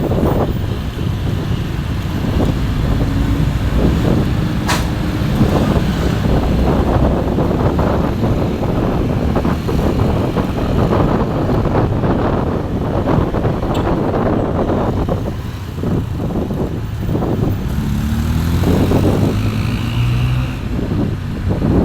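A motor vehicle's engine running on the road, with heavy road and wind noise. The engine pitch rises near the end as it speeds up.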